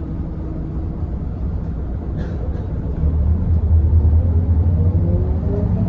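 Scania L94UB bus's diesel engine running with a low rumble, growing louder about halfway through as the bus pulls away, with a rising whine as it gathers speed near the end.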